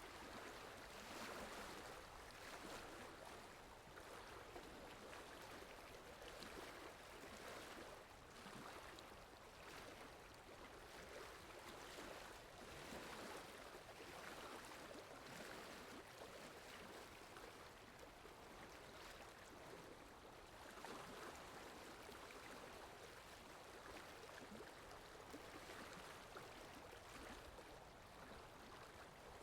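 Faint, steady rushing water ambience: an even hiss with no music.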